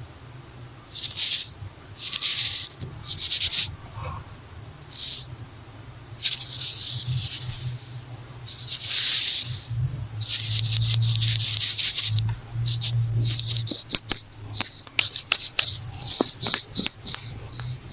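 Makeup brush strokes swept close to the microphone, each a separate hissy swish. About two-thirds of the way through, they give way to faster, shorter scratchy strokes with sharp clicks.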